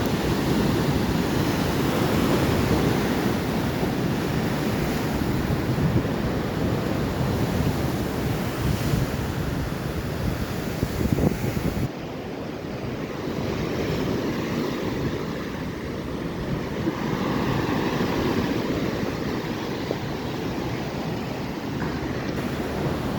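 Atlantic ocean surf, waves washing in steadily, with wind buffeting the microphone. The sound drops abruptly to a softer, duller wash about halfway through.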